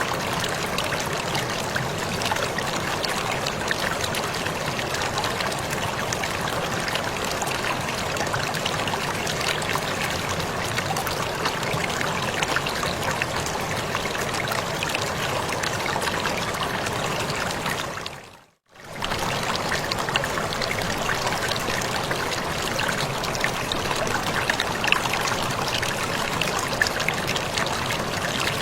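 Waterfall water rushing and splashing in a steady, unbroken wash. About two thirds of the way through it fades out to silence for a moment and comes straight back, a loop join in the recording.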